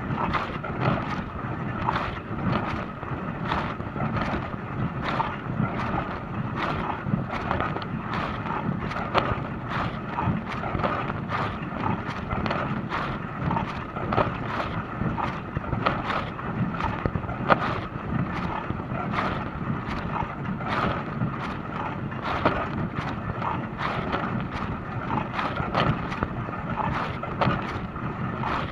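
Dishwasher running a wash cycle: water spraying and splashing inside the tub, a steady rush broken by many small irregular splashes.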